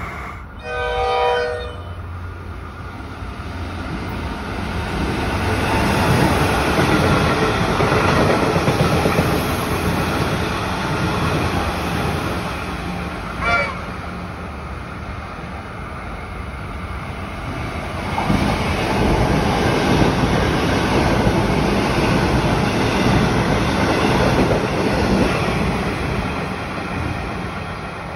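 Comeng electric suburban trains running past a station platform: a short horn blast about a second in, then the rumble and clatter of wheels on rail swelling and fading twice, with a second brief horn toot about halfway through.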